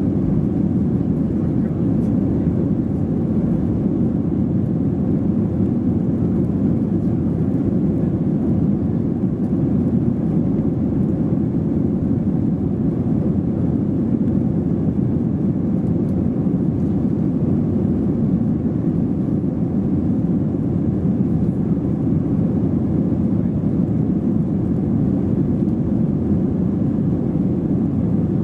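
Steady cabin noise inside an Airbus A320-232 with IAE V2500 engines: an even, unchanging low rumble of engines and airflow, without spooling up or down.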